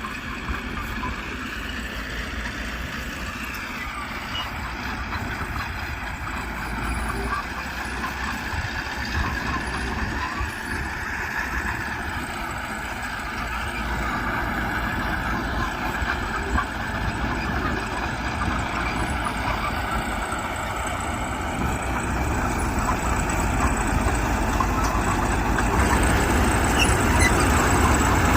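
Heavy diesel engine of earthmoving machinery running steadily, its pitch wavering slowly as it works, growing louder toward the end.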